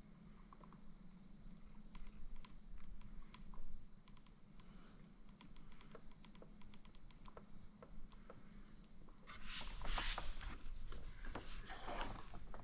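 Light, irregular clicks and taps of small hard parts being handled. About nine and a half seconds in, this gives way to a louder stretch of rustling and scraping.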